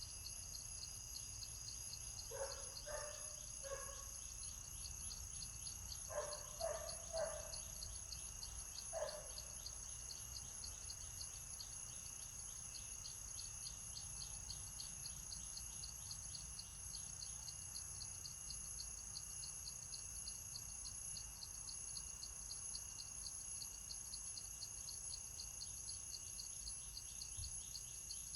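Steady insect chorus: several constant high-pitched whines with a pulsing chirp repeating a few times a second. In the first ten seconds there are two groups of three short, lower call notes and then one more, which may be a bird.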